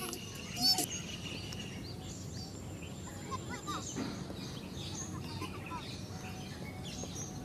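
Outdoor ambience: birds chirping briefly now and then over a steady background noise.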